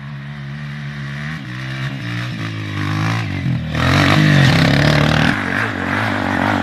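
Dirt bike engine running at low revs with a wavering pitch, then revved harder and louder about four seconds in.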